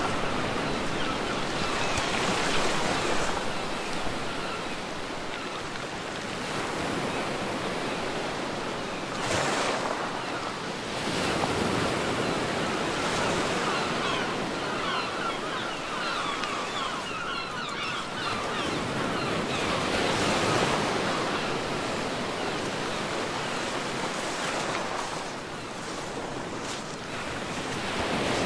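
Ocean waves washing ashore, breaking and receding in swells every few seconds over a steady hiss of surf, with some wind.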